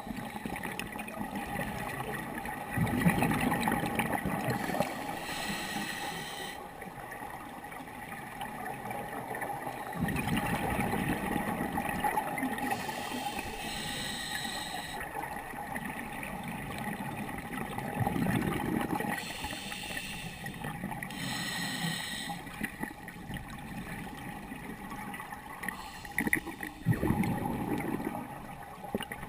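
Scuba diver breathing through a regulator underwater: a low bubbling exhalation, then a hissing inhalation, repeating about every seven or eight seconds, over a faint steady hum.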